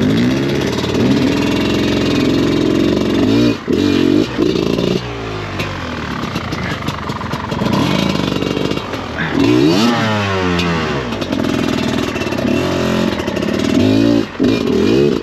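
Off-road enduro motorcycle engine revving up and down over and over, working hard on the throttle with a few short cuts, the pitch sweeping up and back down again about two-thirds of the way through.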